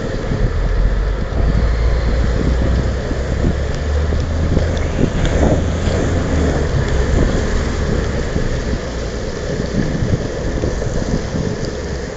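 Longboard wheels rolling steadily over wet pavement, a continuous low rumble and hiss, with wind buffeting the microphone.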